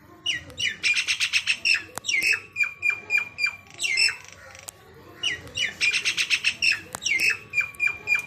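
Common (Indian) myna calling: a phrase of loud whistled and harsh squawking notes, a quick chattering run followed by a string of separate notes, sung twice.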